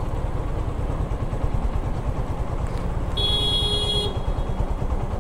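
Motorcycle engine running, a steady low rumble. About three seconds in, a horn sounds for about a second.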